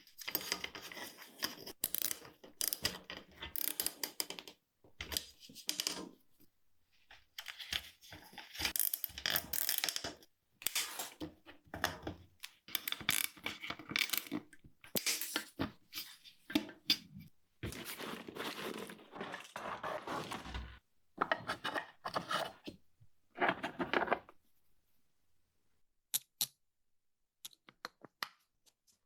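Irregular clicks, scrapes and rustling of hand work with tools and bicycle parts, in bursts with short pauses, dying away about 24 seconds in apart from a few stray clicks.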